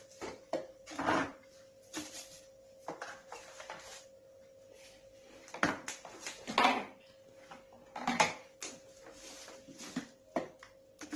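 Packaging being handled as vacuum cleaner parts are taken out of their box: irregular rustles, knocks and scrapes, several louder ones near the middle, over a faint steady hum.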